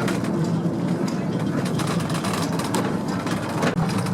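Steady rumble and rattle of a stiffly sprung reproduction early-railway coach running on rails behind a replica Puffing Billy steam locomotive, heard from aboard, with many small clicks and knocks from the wheels and running gear.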